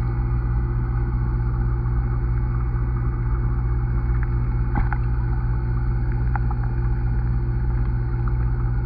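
Muffled steady low hum heard through a camera submerged in a pond, with a few faint clicks about five and six seconds in.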